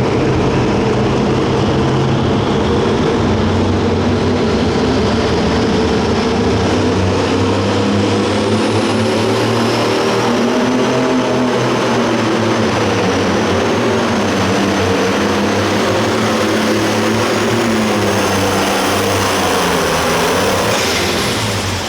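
Super stock pulling tractor's turbocharged diesel engine running hard at high revs under load through a pull, with a high turbo whistle rising in partway through. The engine eases off near the end.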